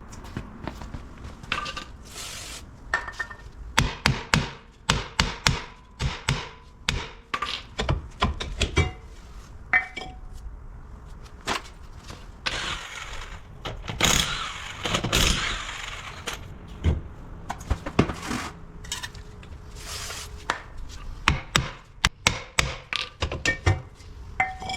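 Hand tools and drum-brake parts clanking and knocking in many sharp, irregular metallic impacts, some ringing briefly, with a scraping stretch about halfway through. It is the sound of a car's wheel brake being taken apart to get at its wheel cylinder.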